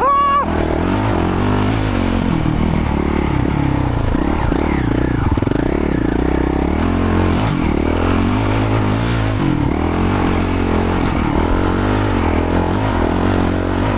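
Dirt bike engine running and revving up and down repeatedly as it is ridden.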